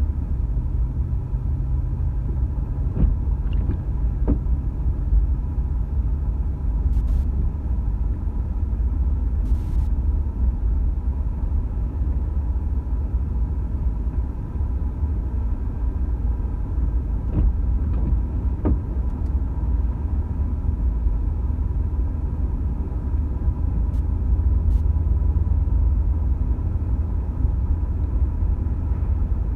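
Steady low rumble of a car driving, heard from inside the cabin, with a low hum for the first several seconds and a few faint clicks.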